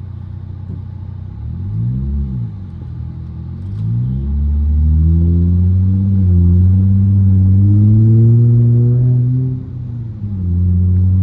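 Car engine heard from inside the cabin: a short rev that rises and falls about two seconds in, then a hard, loud acceleration from about four seconds with the pitch climbing slowly. Near the end the engine note drops briefly, as at a gear change, then pulls again.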